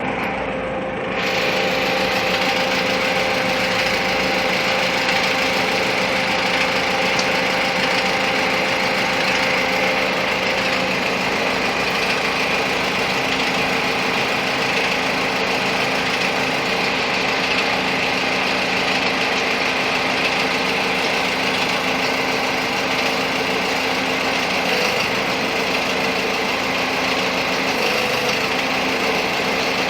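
Truck engine running steadily, stepping up in level about a second in, with a steady whine underneath that fades out about eleven seconds in.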